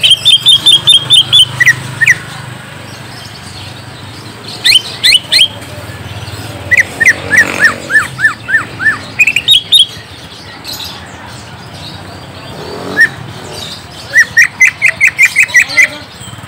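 Green leafbird (cucak ijo) calling in loud bursts of quick repeated chirps. Some runs of notes fall in pitch, with short pauses between the bursts.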